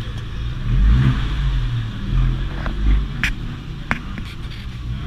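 Abarth 124 Spider's 1.4-litre turbocharged four-cylinder blipped while standing still: the revs rise about a second in and again near three seconds, then ease back down toward idle. A couple of sharp cracks come as the revs drop.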